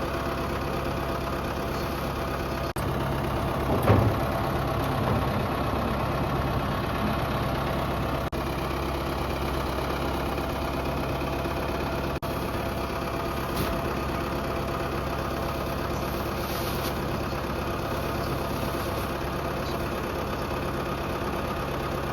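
Ford 5000 tractor's engine running steadily, with one brief louder knock about four seconds in.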